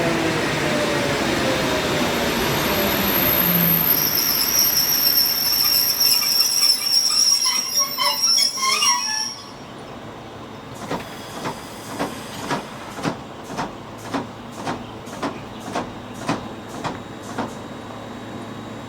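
ЭП2Д electric multiple unit braking to a stop: the traction motor whine falls in pitch, then the brakes and wheels squeal high-pitched for several seconds and cut off abruptly about nine seconds in as the train halts. After the stop comes a run of about a dozen evenly spaced clicks, roughly two a second.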